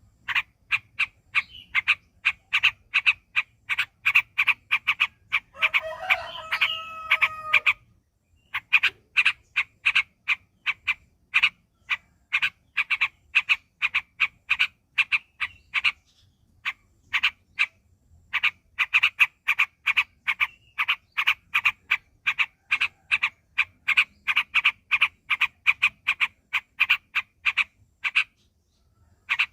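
Yellow-vented bulbul (trucuk) singing a long run of quick, evenly repeated short chirps, about three a second, with brief pauses twice. A drawn-out, steady-pitched call sounds over it from about six to eight seconds in.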